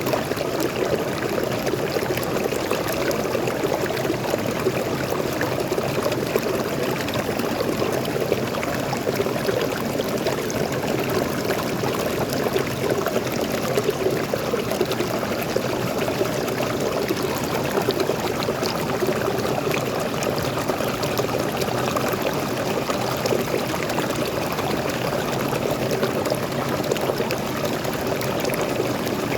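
Waterfall water flowing steadily, an even rushing sound with no breaks.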